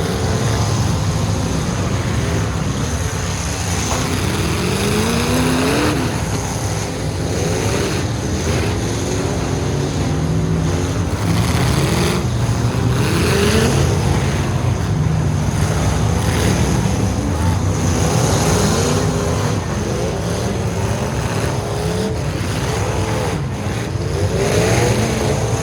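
Engines of several full-size demolition derby trucks revving up and easing off over and over, their pitch repeatedly rising and falling over a steady low rumble.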